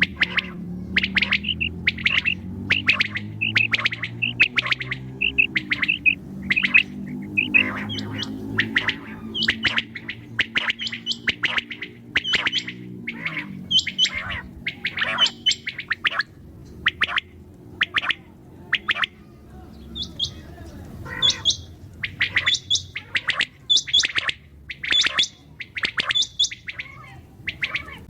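Common quail calling with a long run of short, sharp chirps, about two a second, thinning out briefly about two-thirds of the way through, over a steady low hum.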